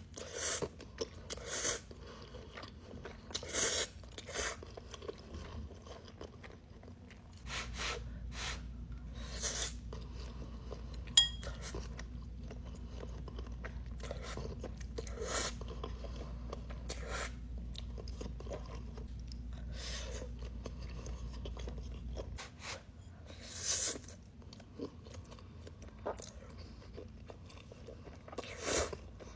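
Close-miked eating: irregular crunchy bites and chewing. A low steady hum sits under it through the middle stretch, and one sharp click comes about 11 seconds in.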